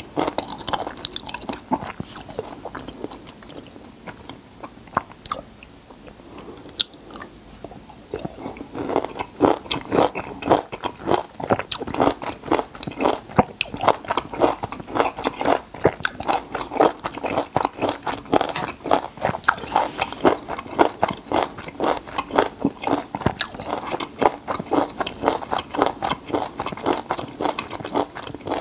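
A person chewing peeled lemon and lime flesh close to a clip-on microphone, with crunching, biting sounds. Quieter for the first several seconds, then steady rhythmic chewing from about eight seconds in.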